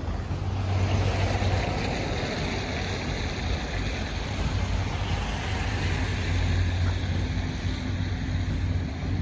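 Road traffic passing: a tyre hiss swells about a second in and fades over the next few seconds, over a steady low rumble.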